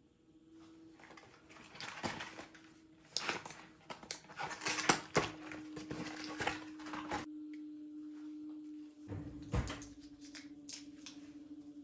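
Household handling noises in a small room: a run of rustles and clicks, then a dull thump about nine and a half seconds in, over a steady low hum.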